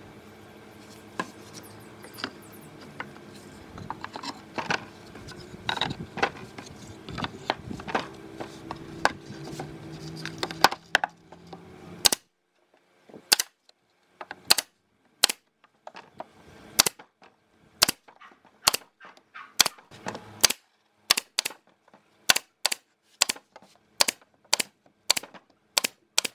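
Sharp, repeated knocks of nails being driven into wood, scattered and softer over a low hum at first, then loud and regular about once a second from halfway on, coming quicker near the end.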